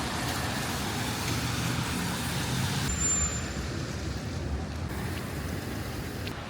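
City street traffic: a steady hiss and rumble of passing vehicles. About three seconds in the sound changes abruptly and becomes duller, losing its high end.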